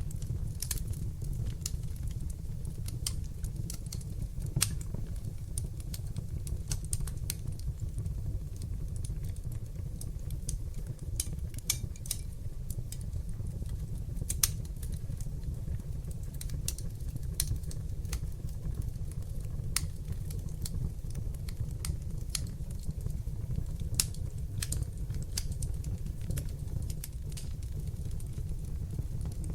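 Wood fire burning in a hearth: irregular sharp crackles and pops, a few louder than the rest, over a steady low rumble of flames.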